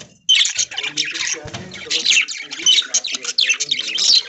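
Flock of budgerigars chattering and chirping, many quick overlapping calls at once. The chatter breaks off very briefly at the start, then resumes abruptly and carries on densely.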